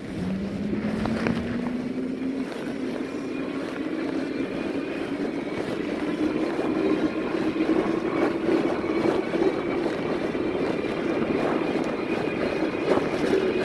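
Electric fat-tire bike's motor whining as it accelerates, the whine rising in pitch over the first several seconds and then holding steady at cruising speed, over wind and fat-tire road noise.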